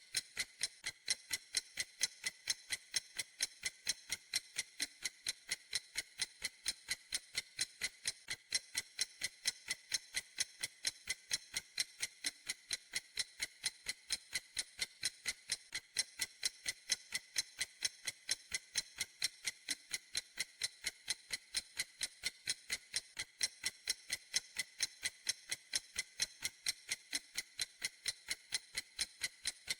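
Clock ticking steadily: sharp, high, evenly spaced ticks at a quick, unchanging pace of several a second.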